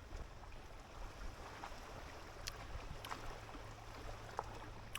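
Faint water sounds with a few soft clicks.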